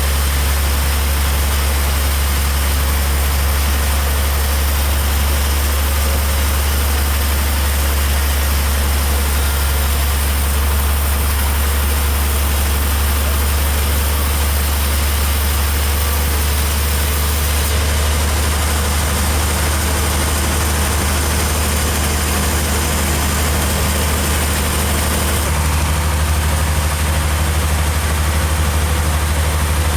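A heavy engine running steadily at idle, with a deep constant hum.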